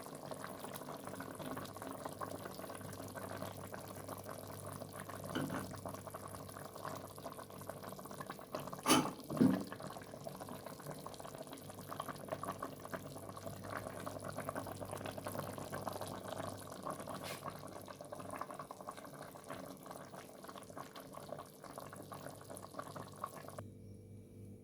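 A meat, olive and preserved-lemon stew simmering and bubbling in a pot, with a steady light crackle. There are two brief knocks, one about five seconds in and a louder one around nine seconds.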